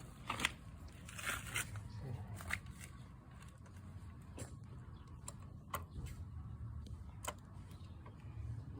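Scattered sharp clicks and a few short crackling rustles, as of things being handled, over a steady low rumble.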